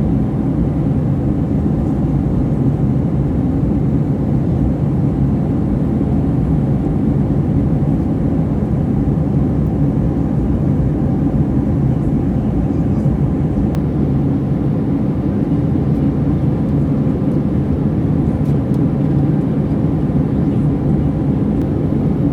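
Steady cabin noise inside an Airbus A321-200 airliner in flight: an even low rush of engine and airflow noise that holds constant throughout.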